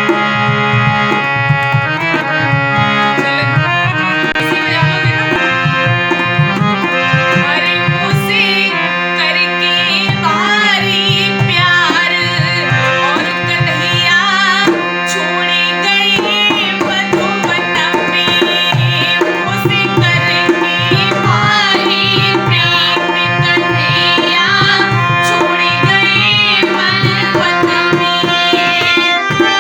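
Indian devotional music: tabla playing a steady rhythm under sustained harmonium chords. About eight seconds in, a high, wavering melody line enters over the accompaniment.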